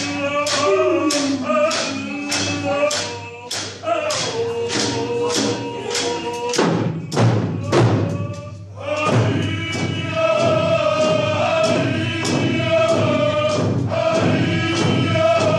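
A group of voices singing together over a steady drum beat, about two strokes a second. The voices drop out for a couple of seconds about six seconds in while the drum goes on, then the singing comes back.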